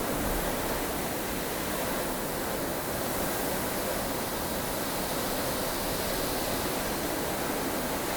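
Strong, blustery snowstorm wind: a steady, even rushing noise.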